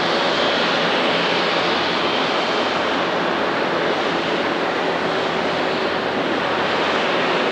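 Widebody jet airliner's engines running at high power, a steady, dense rush of jet noise.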